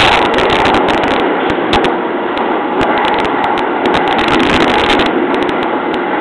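JR East 209-series electric train running, heard from inside the cab: a loud steady rumble of wheels on rail, rising suddenly at the start, with many sharp clicks and rattles throughout.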